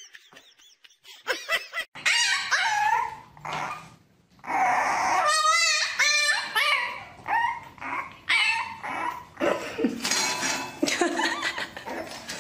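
A dog giving a run of pitched calls: whines and yips mixed with barks, some of them wavering up and down in pitch.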